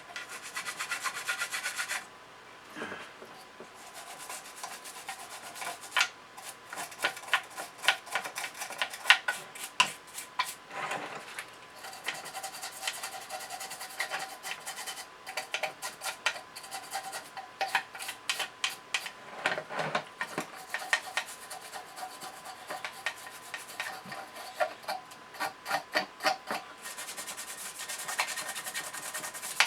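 Toothbrush scrubbing grime off a metal part: quick back-and-forth bristle strokes in bursts, with a few short pauses.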